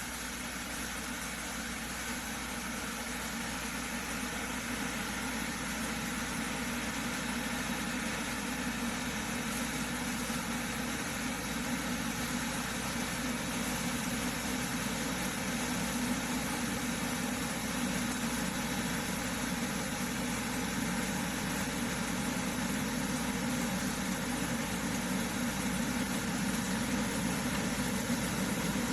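Electric kettle heating water: a steady hiss and rumble that grows gradually louder as the water nears the boil.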